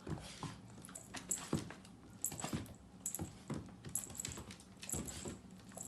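Blue-nose pit bull puppy making short yips and grunts during rough play, each one falling in pitch, mixed with light clicking and jingling from the scuffle.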